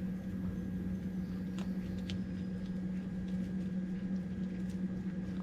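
A steady low hum, with a few faint scattered crunching clicks of a raccoon chewing dry dog food.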